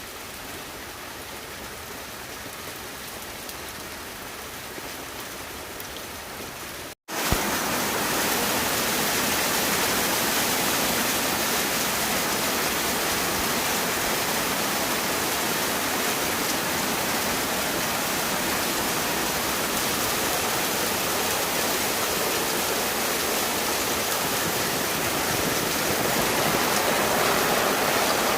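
Steady noise of rain and running water. It drops out briefly about seven seconds in and comes back louder.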